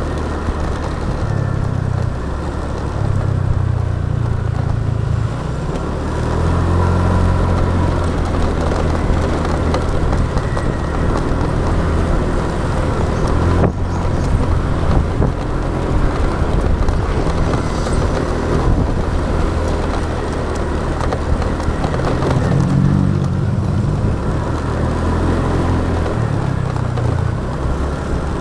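Motorbike ride heard from the rider's action camera: the motorcycle's engine and road noise run steadily, the low engine note shifting as the throttle changes, with passing traffic around.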